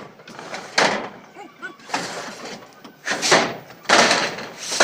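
Tin roofing sheets clattering and scraping as they are handled, in a series of loud, harsh strokes, about five in under five seconds.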